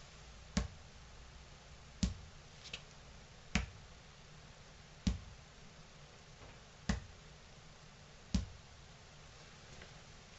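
Dube silicone juggling balls bouncing on a hard floor: six sharp impacts about one and a half seconds apart, with a couple of faint clicks between them.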